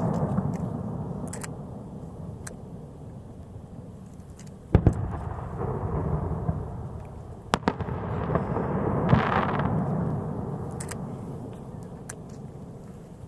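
Aerial fireworks going off: sharp bangs about 5, 7.5 and 9 seconds in, each followed by a long rolling rumble that fades over a few seconds, with small crackles between.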